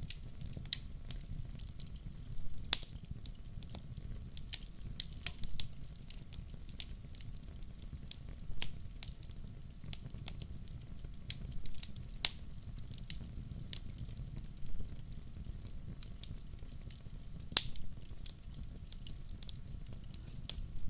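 Wood fire crackling: irregular sharp pops and snaps over a low, steady rumble, with a few louder pops.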